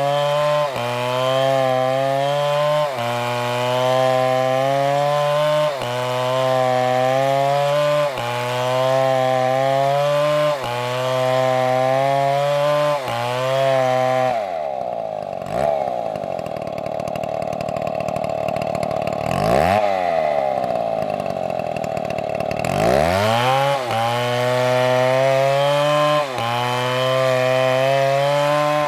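Large chainsaw cutting into a tree trunk under load, its engine pitch sagging and recovering about every two seconds as the chain bites. About halfway through it drops off the cut for several seconds, with one brief rev, then revs back up and resumes cutting.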